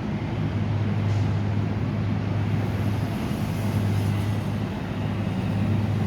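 Steady low mechanical hum, a constant drone with overtones and no change in pitch.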